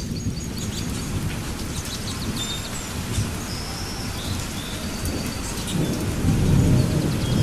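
Steady heavy rain with thunder rumbling low beneath it, the rumble swelling louder near the end.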